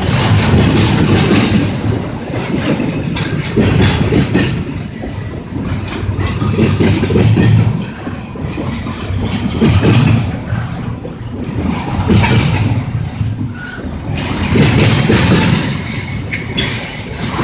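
Train running, a low rumble that swells and eases about every two to three seconds.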